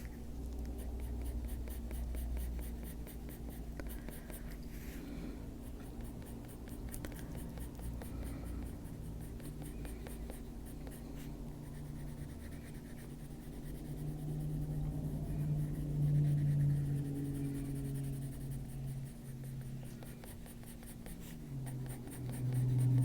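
Oil-based colour pencil (Faber-Castell Polychromos) scratching on a colouring-book page in runs of quick, short shading strokes.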